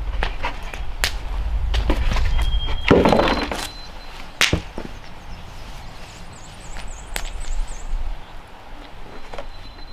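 Several sharp knocks and thuds, the loudest about three and four and a half seconds in, with birds chirping and trilling in the background.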